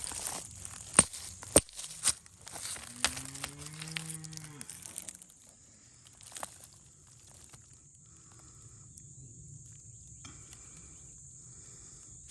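A cow mooing once, a long low call rising and then falling, about two and a half seconds in, after a few sharp knocks. A faint steady high hiss continues after it.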